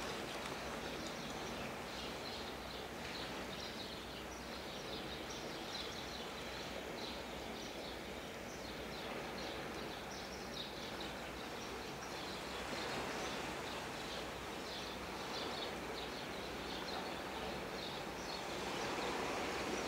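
Birds chirping, many short high calls over a steady background hiss.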